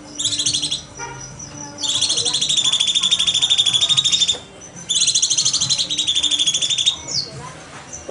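Cucak cungkok singing: rapid, buzzy trills in three runs of one to two seconds each, separated by short pauses, with a brief falling note near the end.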